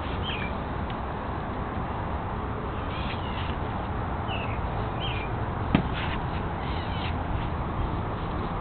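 A bird gives short calls several times, often in pairs, over a steady outdoor background hiss; a single sharp click sounds a little past halfway.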